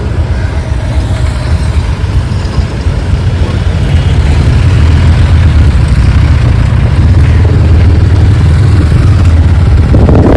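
Motorcycle riding noise swamped by wind buffeting the microphone: a loud, low rumble that grows louder about four seconds in and cuts off suddenly at the end.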